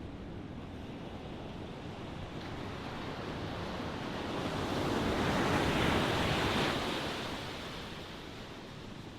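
Ocean surf washing steadily. One wave swells to its loudest about six seconds in and dies back down about two seconds later.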